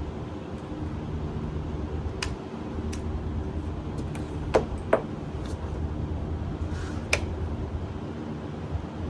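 Small engine idling steadily with a low even hum, with a few sharp clicks around the middle.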